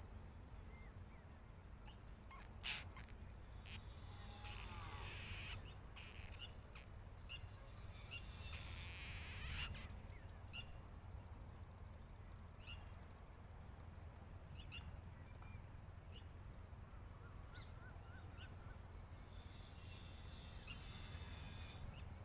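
Faint bird calls: a few short high-pitched calls, one fast run of repeated notes, and scattered sharp clicks over a steady low rumble.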